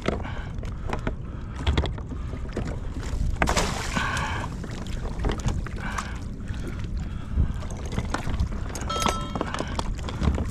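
Water sloshing around a fishing kayak, with wind rumbling on the microphone and scattered sharp knocks and clicks of gear against the hull.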